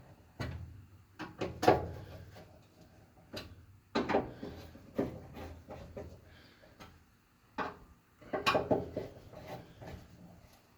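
Irregular knocks, clunks and scraping as the burn pot and its standoff screws are worked into place inside a pellet grill's firebox. The sharpest knock comes about two seconds in, with further clusters around the middle and near the end.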